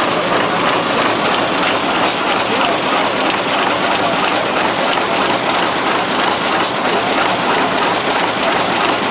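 Best Chen BC-200 automatic book thread sewing machine running steadily, a dense, continuous mechanical clatter.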